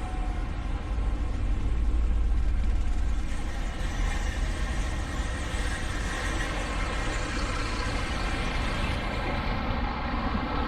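Semi truck's diesel engine running steadily with a deep low rumble, swelling louder about two seconds in.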